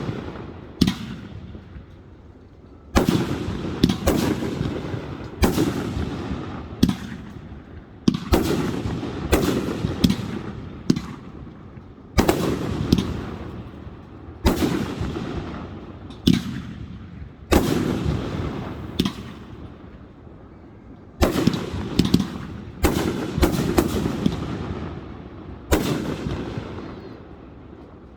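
Fireworks display: a steady string of loud bangs from bursting fireworks, roughly one every second or so, each trailing off in a fading rumble.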